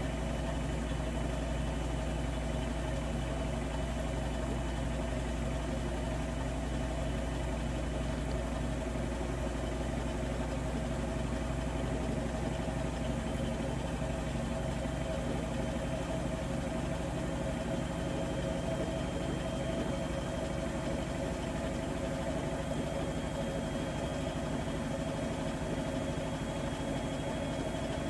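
Bosch Serie 4 washing machine spinning at speed: a steady motor drone and low hum with a faint high whine that creeps slightly upward.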